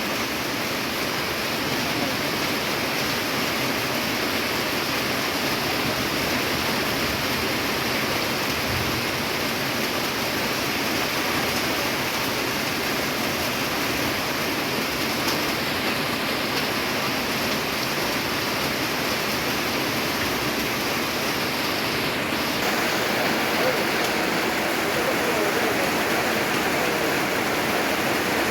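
Heavy rain falling on a corrugated tin roof: a dense, steady patter that grows a little louder about three-quarters of the way through.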